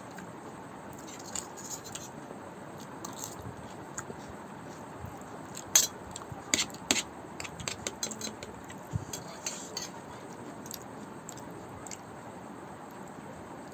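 Eating sounds from someone eating Maggi noodles with mutton gravy: scattered sharp clicks and small clinks of mouth and plate. They are thickest a little before the middle, and the loudest click comes just before that.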